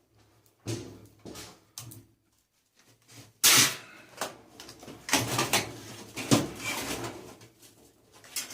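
Knocks, clicks and clatter of metal and plastic dryer parts being pried and handled as a clothes dryer's front panel is stripped for scrap. The loudest knock comes about three and a half seconds in, followed by a busier run of rattling.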